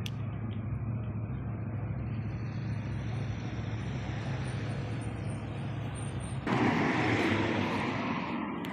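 City road traffic noise: a steady low engine hum with the hiss of passing vehicles, suddenly louder about six and a half seconds in.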